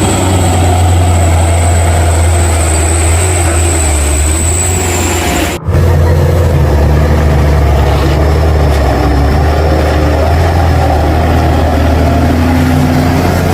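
Heavy truck engine running steadily with a deep hum, broken by a brief dropout about halfway through.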